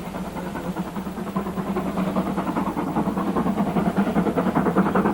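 Stanier Class 5 steam locomotive working hard, its exhaust beats a fast, regular chuffing that grows steadily louder as it approaches.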